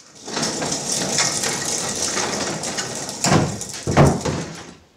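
A steady hiss of noise with no pitch, with two heavier thuds about three and four seconds in, fading out near the end.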